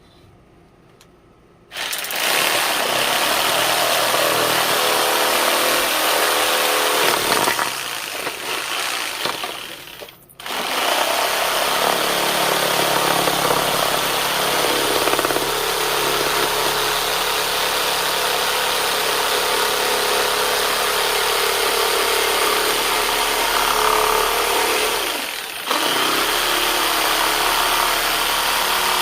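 A power tool working wood starts up about two seconds in and runs steadily, easing off briefly twice before running on.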